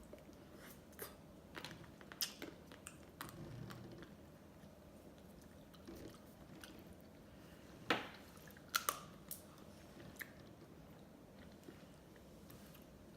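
A person eating ice cream close to the microphone: soft chewing and scattered wet mouth clicks, with two sharper clicks a little past halfway.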